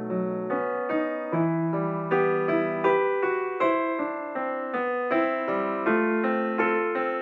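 Background piano music: a gentle melody of single notes struck a few times a second over sustained lower notes.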